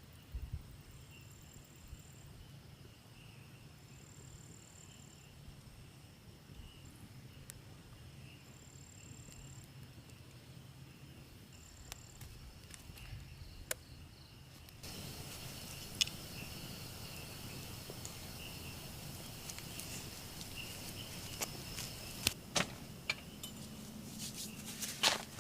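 Insects chirring in a steady high drone. A second, shorter high trill repeats every few seconds. About halfway through the sound gets a little louder and scattered sharp clicks and taps come in.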